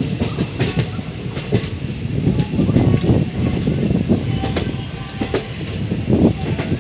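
Passenger train running along the track: a heavy steady rumble with irregular clattering and knocks from the wheels on the rails.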